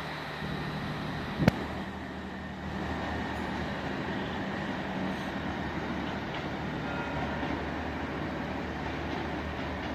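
Diesel train engine running steadily with a low drone, with one sharp clack about a second and a half in.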